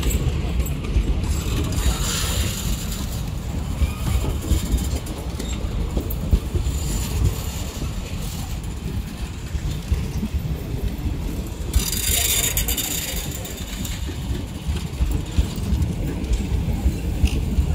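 Passenger coaches rolling past close by: a steady low rumble of wheels on rail with a rapid clatter from the wheels and bogies. A brief hiss rises over it about twelve seconds in.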